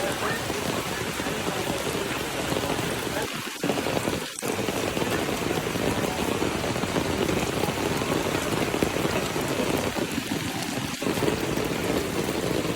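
Steady hiss and splash of falling water, broken briefly twice about three and four seconds in.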